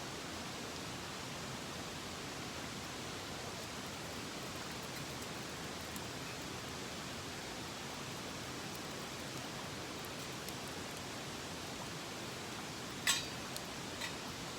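Steady rushing of a mountain stream, with one sharp click about 13 seconds in and a fainter one about a second later.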